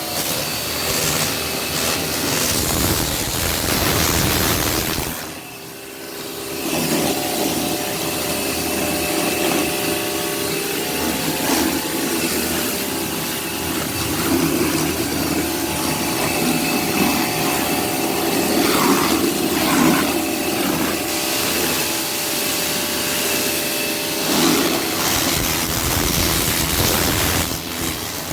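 Pressure washer running with a steady motor drone. It drops off briefly about five seconds in, then picks up again.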